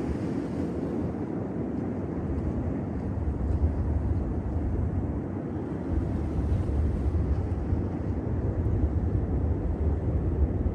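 Steady low rumble of outdoor city ambience, growing heavier in the deepest range about six seconds in.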